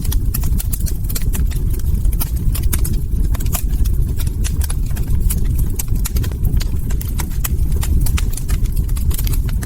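Log fire crackling: many sharp, irregular pops and snaps over a steady low rumble of burning wood.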